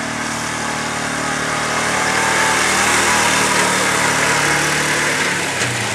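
A four-wheeler towing a 1960s pull-behind lawn mower through tall grass, both engines running steadily. The sound grows louder toward the middle as the rig draws nearer, then eases, with a change in the engine note near the end.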